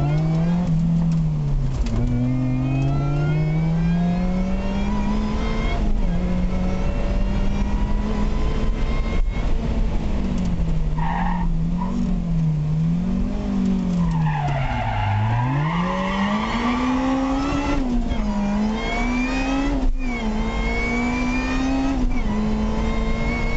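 Supercharged Honda engine in a Lotus Elise, heard from inside the car at full throttle. It revs up through the gears with a drop in pitch at each upshift, and rises and falls as the throttle is worked through a corner. Tyres squeal briefly about halfway through and again for a few seconds soon after.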